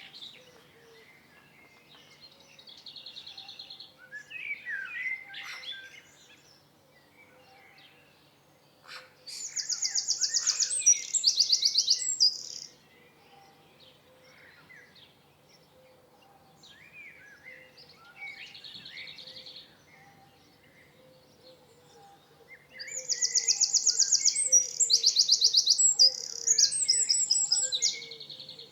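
Several songbirds singing. Twice, about nine seconds in and again near the end, a loud, fast, high trill of rapidly repeated notes lasts a few seconds, with softer varied chirps and short phrases between.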